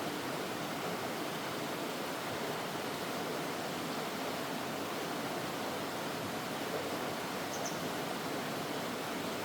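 Mountain valley stream flowing, a steady unbroken rush of water, with one brief high chirp about seven and a half seconds in.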